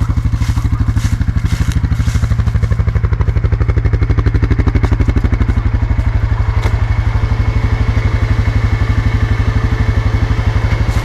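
ATV engine idling steadily with an even, throbbing beat.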